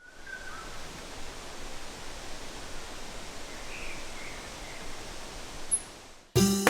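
Outdoor ambience: a steady hiss with a few faint bird chirps, then music with plucked and keyboard notes starts abruptly near the end.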